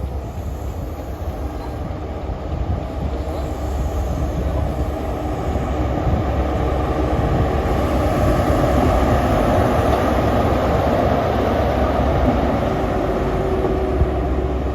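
Class 43 High Speed Train power car diesel engine working hard as the train pulls away, with the rumble of the coaches on the rails. It grows steadily louder, reaching its loudest past the middle.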